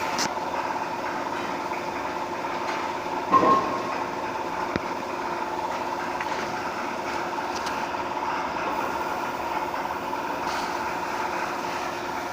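Steady machine hum with a few held tones, and a brief loud clatter about three and a half seconds in.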